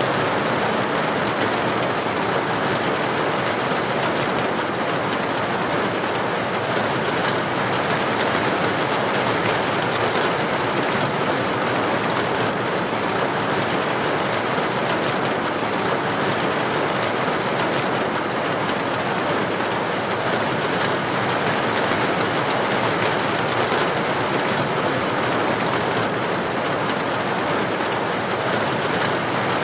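Heavy rain falling steadily on a street, an even, unbroken hiss.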